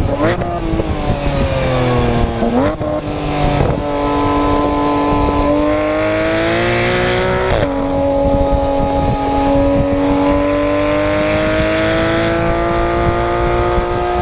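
Porsche 991 GT3 RS's naturally aspirated 4.0-litre flat-six exhaust under track driving. The note falls as the car slows, then jumps up sharply with a downshift blip a few seconds in. It climbs through the revs, drops suddenly at an upshift about halfway, and rises steadily again.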